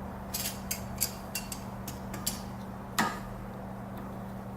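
Light metallic clicks and taps of small tools and parts being handled, with one sharper knock about three seconds in, over a steady low hum.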